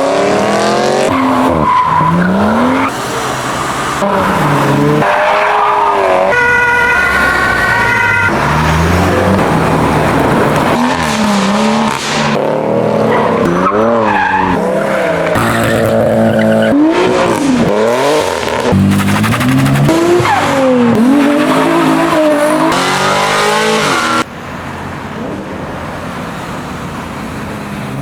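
A quick succession of short clips of high-performance cars revving and accelerating hard, engine pitch climbing and falling through gear changes, with tire squeal from drifting and wheelspin. The clips change abruptly every second or two, and the last few seconds are quieter.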